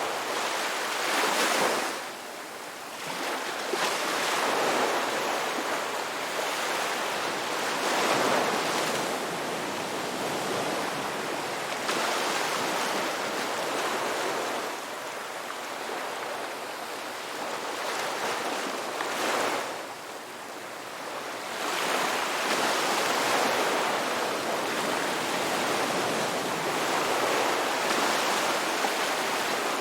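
Ocean waves breaking and washing on a shore, a continuous surf that swells and falls every few seconds.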